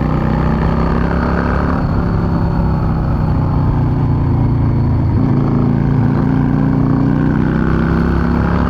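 Yamaha V-Star 650's air-cooled V-twin engine running steadily under way, its note changing about two seconds and again about five seconds in.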